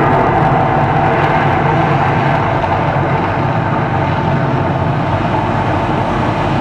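The Mirage volcano attraction rumbling in a steady, loud roar.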